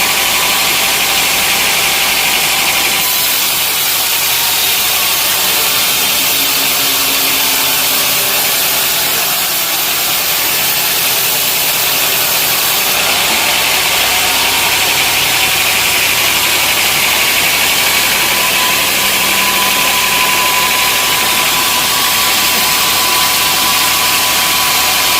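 Sawmill machinery running steadily: an engine with a loud high hiss over it, whose sound shifts about three seconds in and again about halfway through.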